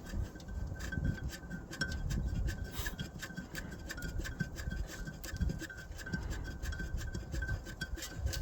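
Hand tools working a bolt on metal machinery: many small irregular metallic clicks and light knocks with scraping and handling noise.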